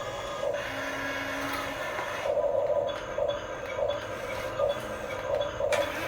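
Small electric motors and plastic gearboxes of remote-control toy construction vehicles whirring, with a hum that pulses roughly every 0.7 s from about two seconds in.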